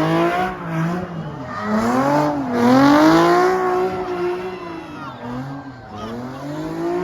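Car engine revving hard, its pitch rising and falling several times and loudest about three seconds in, with tyre squeal, as a car spins donuts.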